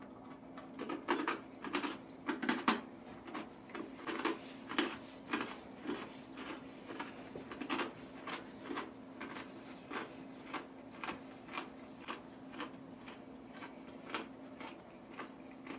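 Chewing cold, extra-crispy fried chicken with full dentures: a regular crunching, about two crunches a second, loudest over the first few seconds and softer after.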